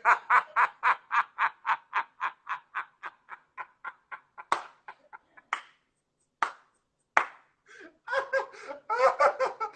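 A man laughing hard, a rapid run of short bursts about five a second that trails off after about five seconds. A few scattered clicks follow, then laughter and voice start up again near the end.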